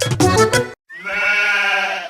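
Bouncy children's song music cuts off, and after a short gap a single drawn-out farm-animal call sounds for about a second, falling slightly in pitch.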